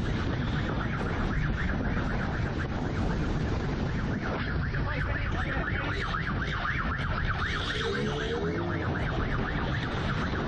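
A siren warbling rapidly over the rush of wind and a motorcycle engine at speed.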